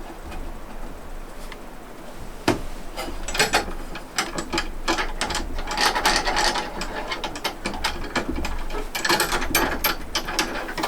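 Kitchen clatter: a run of clicks, knocks and rattles from cookware and utensils being handled, busiest in the middle and again near the end.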